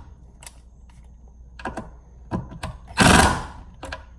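Ryobi cordless impact driver run in one short burst about three seconds in, driving a drywall screw, with a few handling clicks and taps before it.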